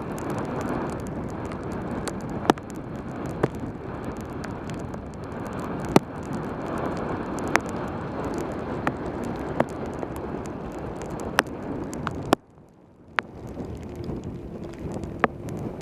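Wind rushing over a helmet camera's microphone during a fast bicycle descent on a rain-wet road, with tyre hiss, scattered sharp ticks, and a brief dropout of the rush about twelve and a half seconds in.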